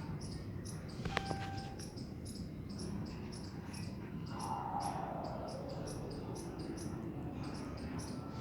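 Crickets chirping, short high-pitched chirps repeating about three times a second over a low steady hiss. A brief tone sounds about a second in, and a faint drawn-out falling call comes midway.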